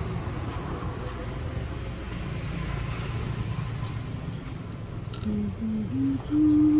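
Steady low rumble of street traffic. Near the end a rising run of four short, clear tones climbs step by step, the last one the loudest and held longest, with a sharp click just before the first.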